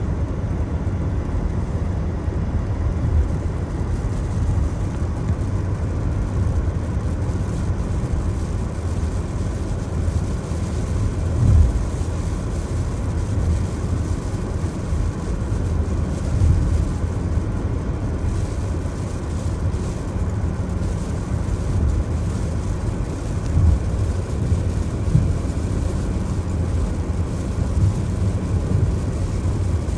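Car driving on a rain-wet road, heard as a steady low rumble of tyres and engine, with a few brief louder bumps.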